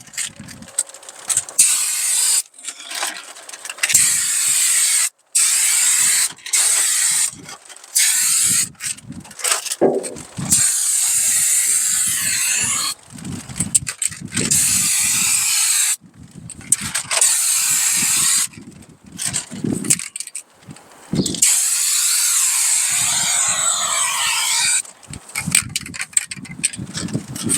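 Turbo Can aerosol of spray-on bed liner hissing in repeated presses of one to three seconds each, with wind rumbling on the microphone in the gaps.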